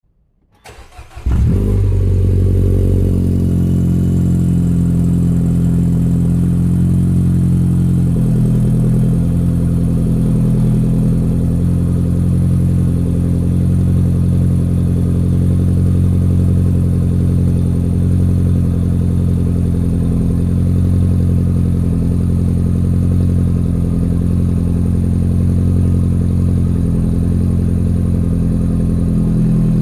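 R56 Mini Cooper's 1.6-litre four-cylinder engine through a 3-inch Gravity exhaust starting from cold, catching about a second in and settling into a loud, steady fast idle. The idle steps down slightly about eight seconds in as the cold-start fast idle begins to ease.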